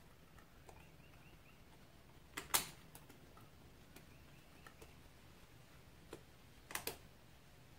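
A few sharp clicks and taps of hand tools against metal parts, a pair about two and a half seconds in and a quick cluster of three near the end, while a spring clip is being worked into its groove on an ATV front hub.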